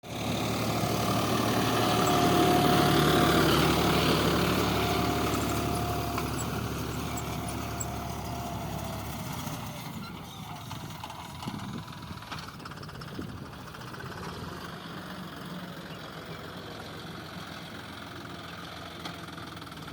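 John Deere 5405 tractor's diesel engine running, loudest a few seconds in, then fading over the next several seconds and carrying on at a lower level.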